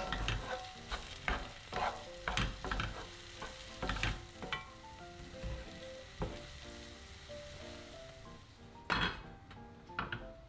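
Food sizzling in a frying pan while a utensil stirs and scrapes it, with quick strokes for the first few seconds, then softer sizzling and two louder scrapes near the end. Gentle piano music plays underneath.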